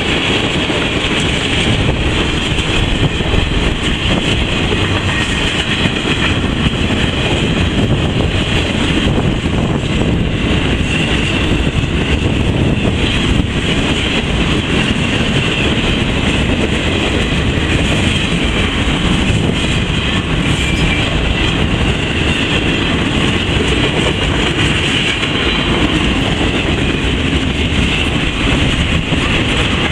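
Railroad passenger cars rolling past at speed, a steady, even noise of steel wheels on rail with a light clickety-clack.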